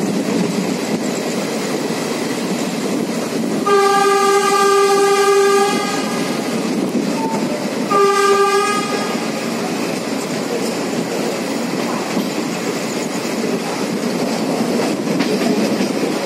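Passenger train running with steady wheel-and-rail noise, and a train horn sounding twice: one long blast of about two seconds near four seconds in, then a shorter blast about eight seconds in.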